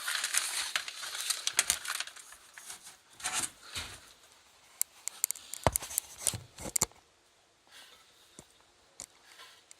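Rustling and crinkling as a mat is handled and pushed into a rollaway nest box, followed a few seconds later by a run of sharp clicks and knocks.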